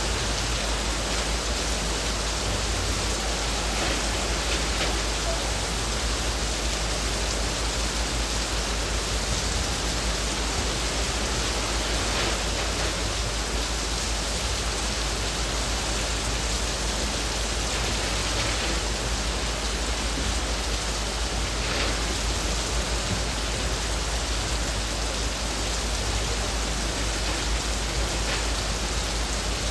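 Heavy rain falling steadily on leaves: an even hiss with a few slightly louder drop spatters now and then.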